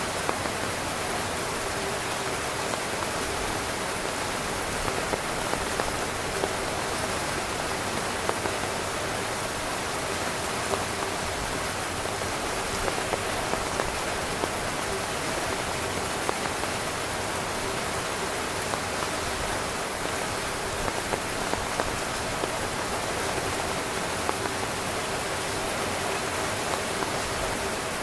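Heavy rain drumming steadily on a tent's fabric, a dense hiss with many separate drop taps scattered through it.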